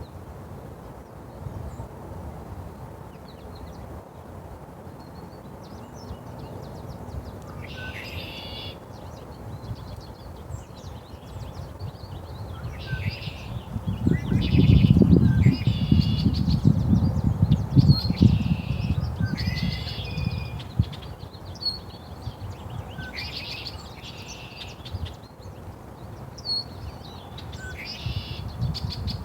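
A songbird singing short repeated phrases, one every two to three seconds from about eight seconds in. Under the song runs a low rumble that swells loudest from about fourteen to twenty seconds in.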